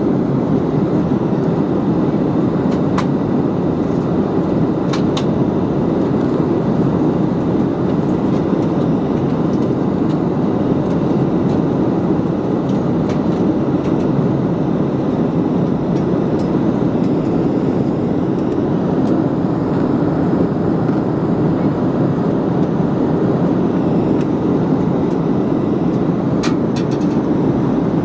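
Steady roar of a Boeing 737's jet engines and rushing air heard inside the passenger cabin in flight, with a few faint clicks.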